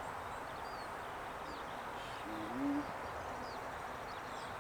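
Steady hum of honey bees around an open hive. A bird gives one low, two-note coo, stepping up in pitch, about two seconds in.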